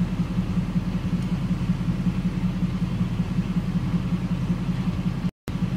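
Vehicle engine idling steadily, heard from inside the cab as a low, even rumble. The sound cuts out completely for a split second near the end.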